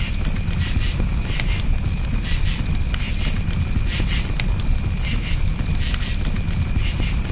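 Campfire crackling with scattered sharp pops over a low steady rumble, while crickets chirp in a steady high-pitched pulsing chorus, about two chirps a second.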